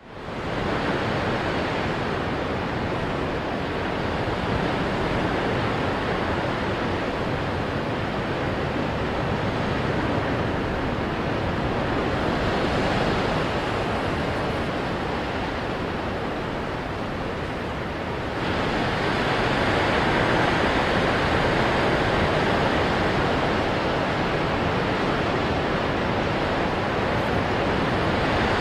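Ocean waves crashing onto rocks: a continuous wash of surf that fades in at the start and turns a little louder and brighter about two-thirds of the way through.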